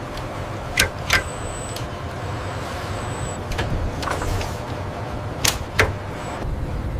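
Factory machinery running with a steady low rumble, with two pairs of sharp knocks, one pair about a second in and one about five and a half seconds in.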